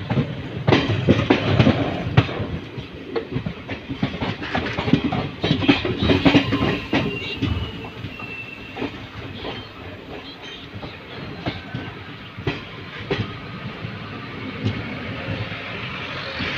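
Moving passenger train heard from an open coach doorway: wheels clattering irregularly over rail joints over a steady running rumble. The clatter is heaviest in the first half and thins out later.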